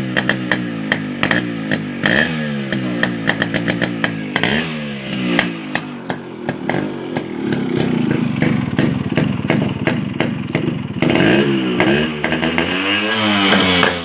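Yamaha RX 135 two-stroke single-cylinder engine running through its original silencer, idling with rapid, uneven popping and blipped up in revs several times. It is held at higher revs for a few seconds around the middle.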